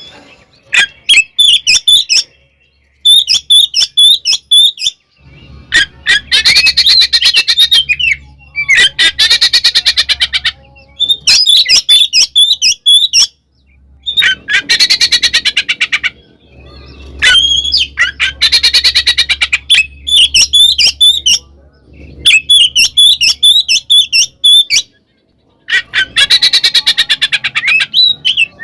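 Oriental magpie-robin (kacer) singing loudly in separate phrases. Short whistled phrases alternate with about five longer, harsh rattling chatters, each two to three seconds long: the 'ngekek' fighting chatter of a bird in full song.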